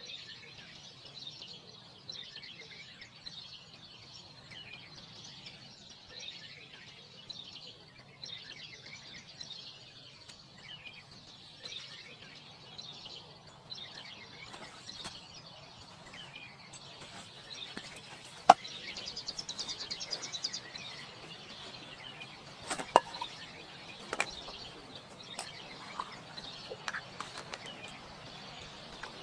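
Forest birds chirping and calling without a break, with a buzzing trill about two-thirds of the way through. A few sharp knocks stand out over them, the loudest about two-thirds in.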